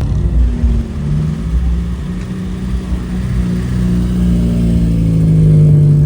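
Car engine running under light throttle, its pitch stepping up about a second in and then climbing slowly as it grows louder toward the end.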